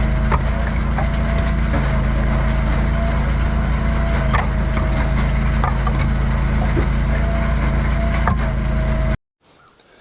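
Engine-powered firewood-splitting machine running steadily, with wood cracking and splintering now and then. The sound cuts off abruptly about nine seconds in.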